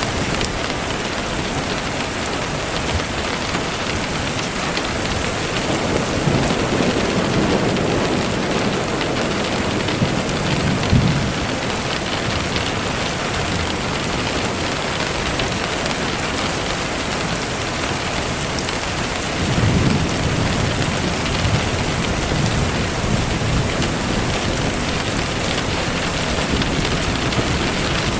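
Steady rain falling, with low rumbles of thunder swelling up about six seconds in and again about twenty seconds in, and a short sharp crack near eleven seconds.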